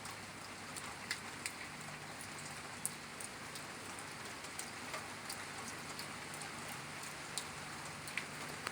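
Steady rain falling during a night thunderstorm, with individual drops tapping sharply close by now and then. No thunder is heard.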